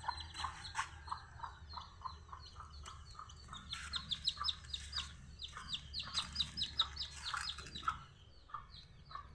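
Birds calling in quick repeated chirps: a steady run of lower notes about four a second, with higher, falling chirps over it that grow louder and busier about four seconds in.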